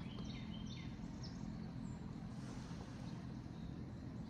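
Short, high bird chirps in roughly the first second and a half, over a steady low hum.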